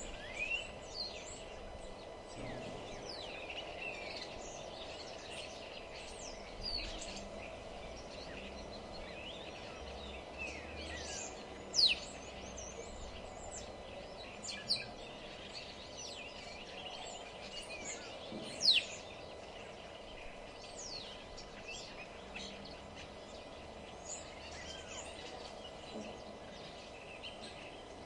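Several wild songbirds chirping and calling over a steady low background noise, with many short falling whistles. Two sharp downward-sweeping chirps stand out as the loudest, one a little before the middle and one about two-thirds of the way through.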